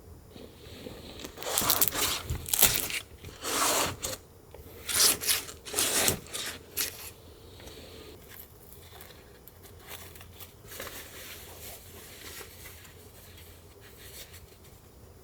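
A run of close rustling and tearing scrapes, like material being handled and torn, in several loud bursts during the first seven seconds and then only faint scratching.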